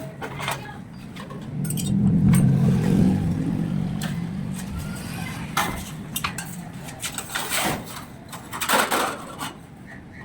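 Metal clinking and knocking of tools and parts being handled, with a low steady hum from about two to six seconds in.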